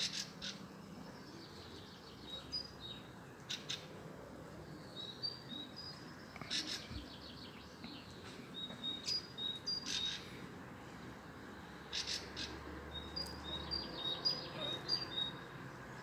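Songbird singing: several short phrases of quick, clear notes alternating between two high pitches, with sharp chirps in between.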